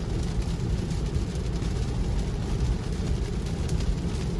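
Steady tyre and road noise from a Tesla driving on a wet road in the rain, heard inside the cabin: a low rumble with a fainter hiss.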